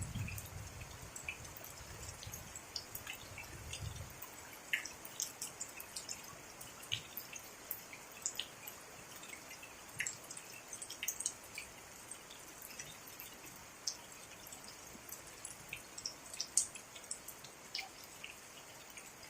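Rain falling, with many separate drops clicking close by over a soft high hiss. A low rumble of thunder dies away in the first four seconds.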